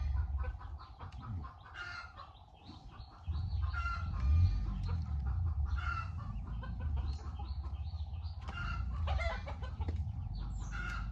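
Chickens clucking, short calls repeating every second or two, over a low rumble that gets louder about three seconds in.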